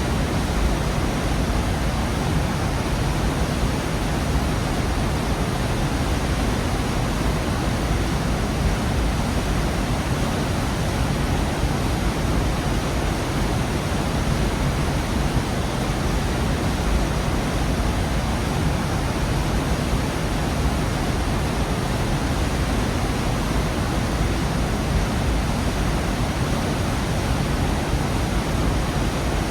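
Waterfall pouring down a rocky gorge: a steady, full rush of falling water, strongest in the low rumble, unchanging throughout.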